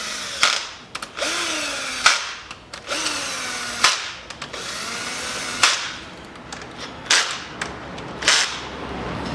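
Cordless screwdriver running down the camshaft bearing cap bolts one after another. There are about six short runs of motor whine, each ending in a sharp click as the bolt seats.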